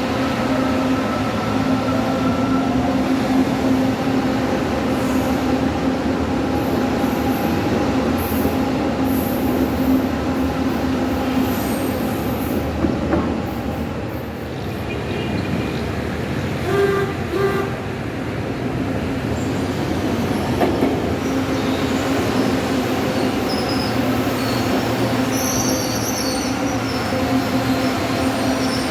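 LRT Line 2 electric light-rail train running, with a steady motor hum throughout. A short pitched signal sounds about halfway through, and wheels squeal on the rails near the end.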